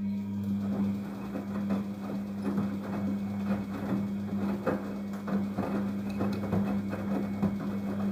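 Daewoo DWD-FT1013 front-loading washing machine working through a Hand Wash 30° cycle. It sets in abruptly with a steady electrical hum under irregular sloshing and knocking from the water and laundry inside.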